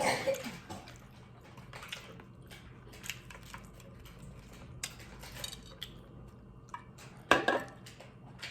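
Close-miked eating and food-handling sounds: scattered small clicks and light clatter of plate and food, with louder bursts at the start and about seven seconds in.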